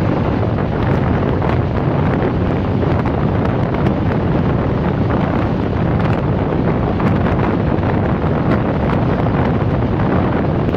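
Steady wind rushing over the microphone at an open window of a passenger train running at speed, over the continuous rumble of the train on the track.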